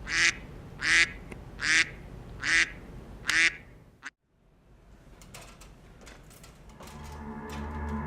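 A duck quacking five times, about one quack a second, followed by a sudden cut. Near the end a steady, sustained musical tone begins to rise.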